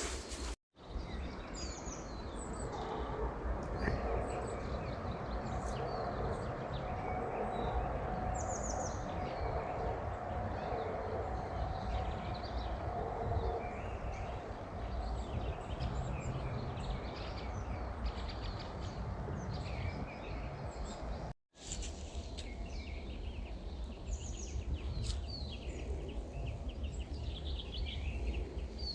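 Small birds chirping and twittering over steady outdoor background noise with a low rumble. The sound drops out completely twice, briefly, near the start and about two-thirds of the way through.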